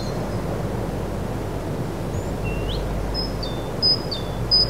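Outdoor ambience: a steady low rumble and hiss with a small bird calling over it. There is a single rising note about halfway in, then a repeated two-part chirp, high then dropping, roughly every 0.7 s.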